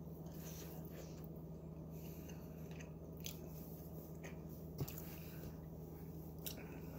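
A person chewing soft baked egg: faint, scattered mouth clicks over a steady low hum.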